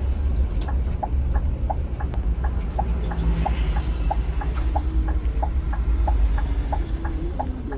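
Scania K360iB coach engine running with a low rumble, heard from inside the bus as it pulls into a stop. A steady short ticking, about three a second, runs over it.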